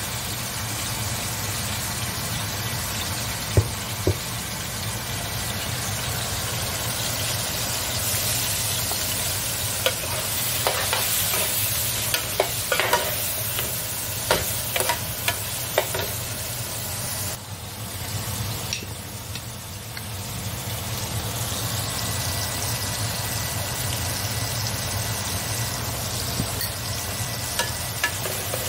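Diced tomatoes and vegetables sizzling in a copper-coloured square frying pan as they are stirred with a metal spoon. The spoon clicks and scrapes against the pan now and then, most often in the middle stretch.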